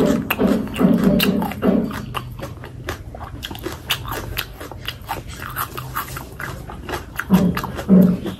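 Close-miked chewing of rice and fatty pork curry: wet mouth clicks and smacks throughout, with short repeated pitched vocal sounds in the first two seconds and again near the end.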